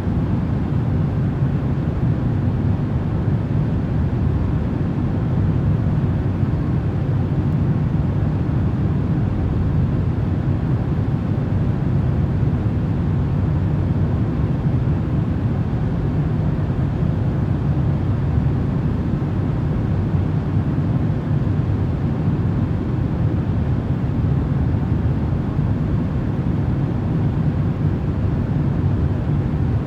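Steady, low rumbling noise played as a sleep sound, even and unchanging, with a faint hum in the low range.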